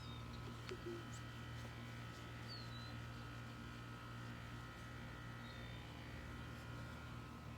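Steady low electrical hum with a few faint, short high-pitched chirps over it.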